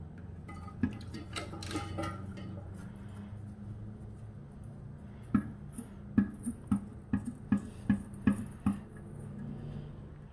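Hands fitting a new rubber toilet flapper onto the flush valve inside a drained porcelain tank: some rustling and light clicks at first, then about ten sharp clicks and taps at two to three a second in the second half.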